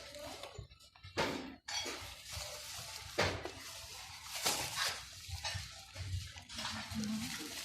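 Kitchen clatter while cooking: a utensil clinking and scraping against a pot or pan, with a few sharp knocks.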